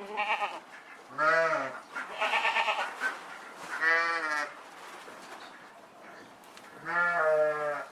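Livestock bleating: about five separate calls of different pitches, some arching and some wavering.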